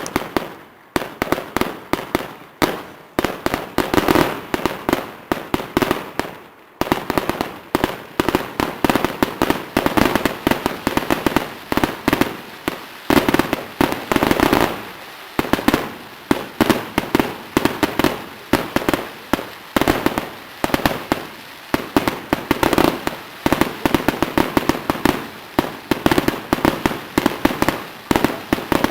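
Fireworks display: a dense, continuous run of rapid bangs and crackling shell bursts, easing briefly about six seconds in before building again.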